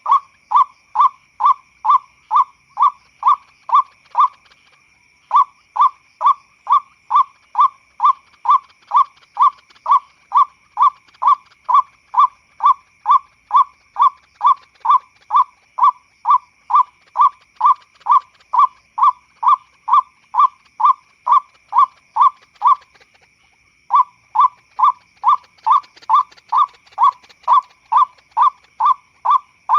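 Lure recording of a white-breasted waterhen (ruak-ruak) calling: short, loud notes repeated about twice a second, with two brief breaks, one after about four seconds and one near the end.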